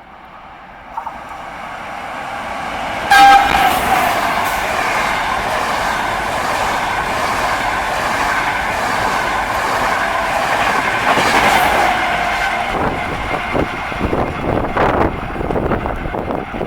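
A train passing through a station at speed without stopping. It approaches, sounds a short horn blast about three seconds in, then rushes past, with a run of wheel clacks over the rail joints near the end.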